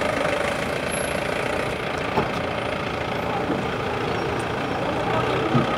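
Vehicle engine idling steadily, with a few short knocks.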